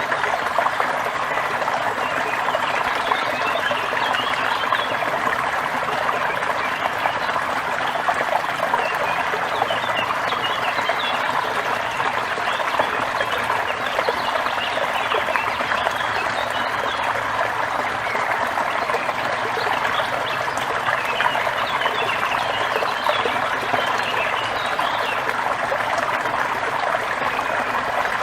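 Waterfall splashing steadily, with songbirds chirping in many short, scattered high calls over the water.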